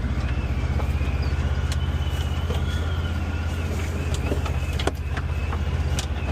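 Polaris Xpedition UTV running slowly down a steep descent on its brakes, with a steady low engine rumble and a faint wavering high whine. A few sharp knocks come through, about two, five and six seconds in.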